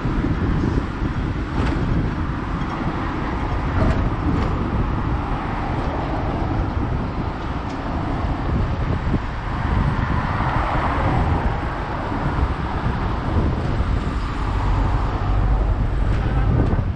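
Hong Kong double-decker tram running along its tracks: a steady rumble with street traffic around it.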